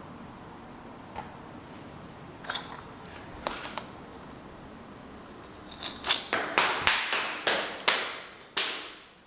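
A small hard case, an accelerometer in an egg-shaped housing, tumbling down concrete stairs: a few light knocks, then a quick run of about eight sharp clacks in the second half, each echoing briefly in the stairwell.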